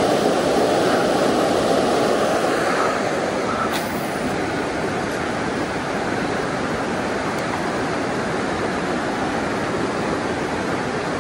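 Steady rushing of flowing creek water, with a faint short click about four seconds in.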